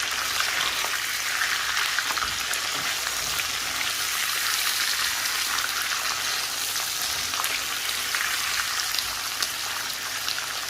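Chicken pieces frying in hot oil in a karahi, sizzling steadily with fine crackles and spits, at the stage where ginger and garlic paste has just been stirred into the browned chicken.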